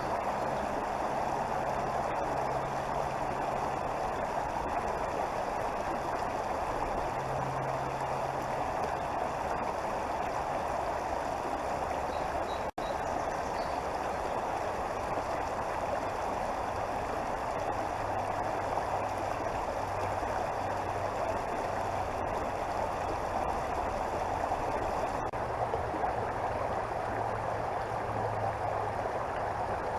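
Creek water flowing over rocks: a steady, even rush. A low hum comes and goes underneath, and the sound drops out for an instant about 13 seconds in.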